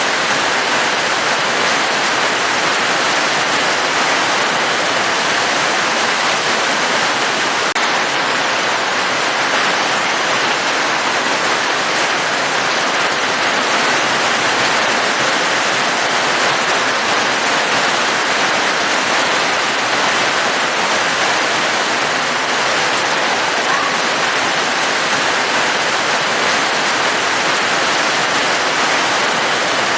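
Steady heavy rain: an even, unbroken hiss of falling water with no single drops standing out.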